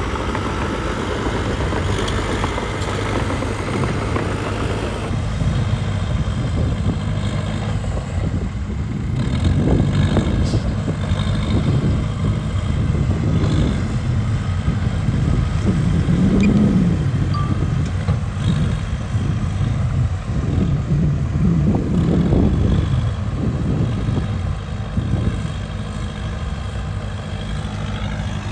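Diesel engine of a Cat D3K2 XL bulldozer running under load as it pushes dirt, swelling louder and rising in pitch several times as the machine works.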